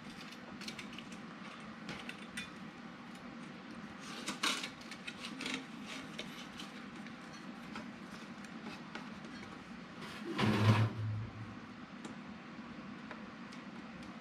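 Quiet handling sounds: soft clicks and taps of a marker and a duct pipe being handled, with one louder knock about ten and a half seconds in.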